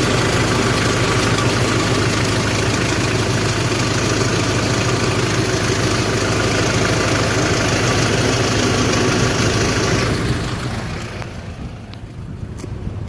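Hyundai Grace van's 2.5-litre turbo-diesel engine idling steadily. The sound falls away over the last few seconds.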